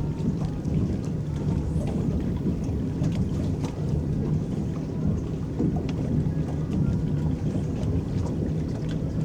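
Electric boat moving over the lake, its paddles churning the water: a steady low rumble of water against the hull with faint motor hum and small splashes and drips.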